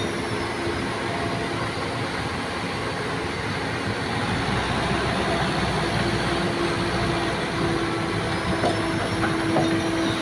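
Heavy diesel engines running hard under load as a loaded palm-oil truck is hauled through deep mud with heavy equipment. The rumble is steady, and about four seconds in a deeper drone and a steady hum join it.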